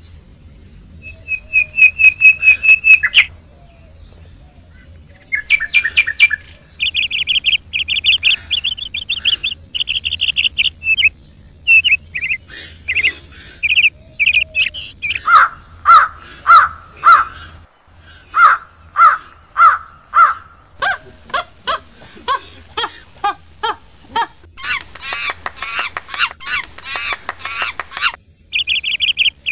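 A songbird singing loud, varied phrases: fast chirping trills, runs of repeated whistled notes at about two a second, and a dense twittering stretch near the end.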